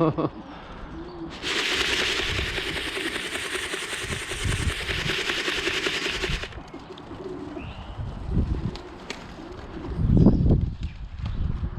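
Young racing pigeons cooing around the loft, louder near the end, with a steady rush of noise that starts suddenly about a second and a half in and cuts off about five seconds later.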